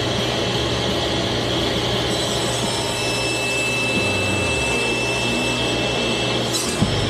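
Laguna Fusion F1 table saw running and cutting through a board, a steady motor and blade noise. A thin high whine comes in about three seconds in and drops away near the end.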